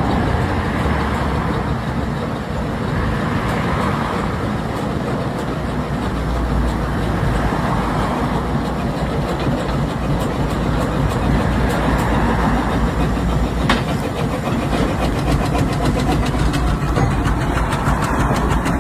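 An old tractor's engine running steadily.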